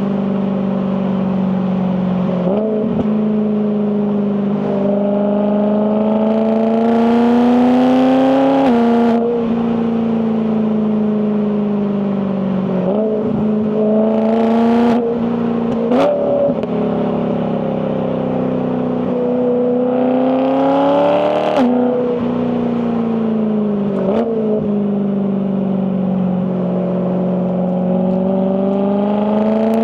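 BMW E92 M3's 4.0-litre S65 V8 revving under acceleration, its pitch climbing and then dropping sharply at several gear changes, with a few short blips of revs in between.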